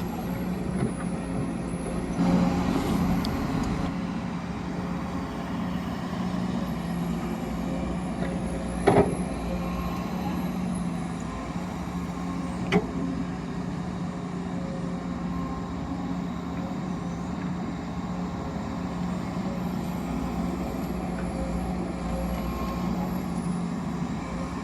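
Excavator and haul truck machinery running steadily, a low hum with a faint high whine above it. There is a sharp knock about nine seconds in and another about four seconds later.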